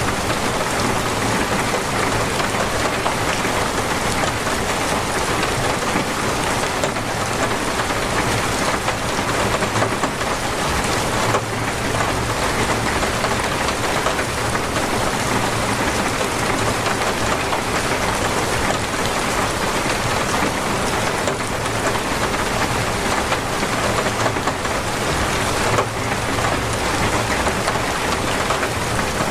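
Heavy, torrential rain falling steadily on surfaces, a dense, even hiss with a steady low rumble beneath it and a few brief louder drip-like ticks.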